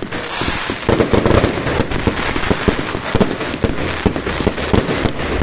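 Fireworks and firecrackers going off without pause: a dense, irregular run of pops and bangs over continuous crackling.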